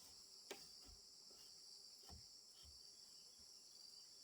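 Faint steady high-pitched insect chorus, with a few faint knocks about half a second and two seconds in.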